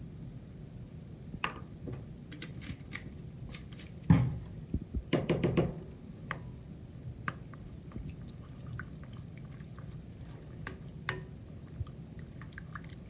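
Spoon and mixing bowl clinking and knocking as wet ingredients are added and stirred, with a sharp knock about four seconds in and a short burst of clatter just after.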